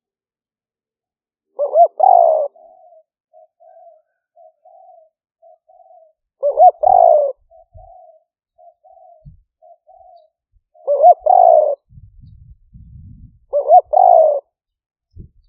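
Spotted dove cooing, a decoy-style call series. Four loud phrases come about four seconds apart, each a quick rising double note followed by a longer coo, with soft short notes repeated between them.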